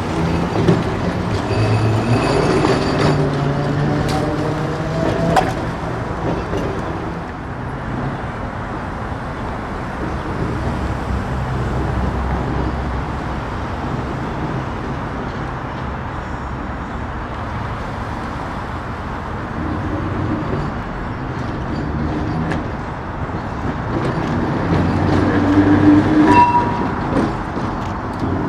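Perley Thomas streetcar running on its rails with a steady rumble. A rising motor whine comes in the first few seconds as it picks up speed.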